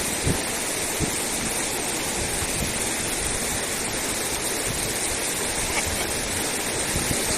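Steady rush of flowing river water, with a couple of short low thumps near the start.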